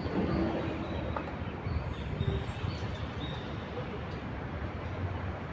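City square ambience: a steady low rumble of distant traffic, with a few brief high chirps in the middle.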